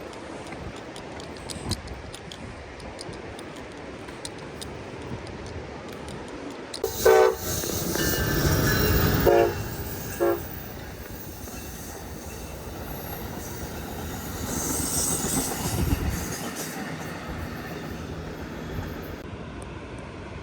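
A passing train sounds its horn three times, a longer blast about seven seconds in and two short ones a few seconds later, over the rumble of the train going by, which swells again briefly later on.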